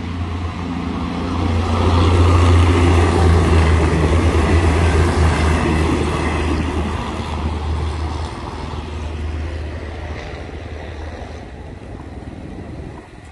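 Diesel railcar train passing close by at a level crossing: a steady low engine drone mixed with running noise, swelling to its loudest a few seconds in, then fading as it moves away.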